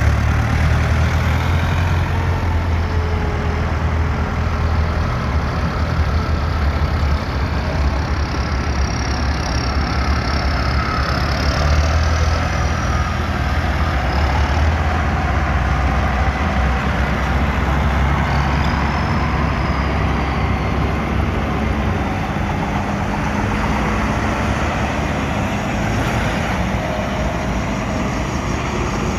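Vintage tractor engines running with a heavy low rumble, which eases off about three quarters of the way through.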